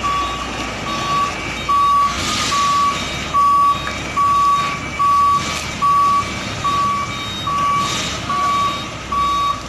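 Container truck's reversing alarm beeping steadily, a single tone about one and a half times a second, over the truck's engine running. A few short bursts of noise come up partway through.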